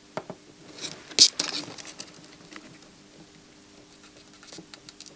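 Small clicks and scratches of tools handling a chip and circuit board during soldering, with one louder, hissy scrape about a second in.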